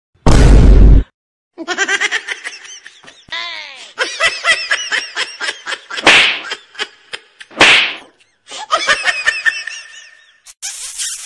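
Edited-in comedy laughter sound effects: a run of high, bouncing laughs and giggles, following a short, very loud blast about half a second in.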